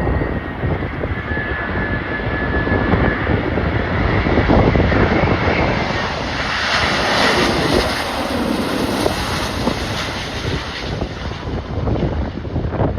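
Jet airliner on final approach passing overhead, its engine noise swelling to a peak from about six to ten seconds in, with a falling pitch as it goes by, over gusty wind buffeting the microphone.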